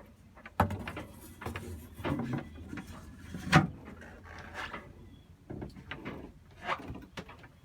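A series of wooden knocks and clunks, like cupboard doors, lids or drawers being handled in a small boat cabin; the sharpest knock comes about three and a half seconds in.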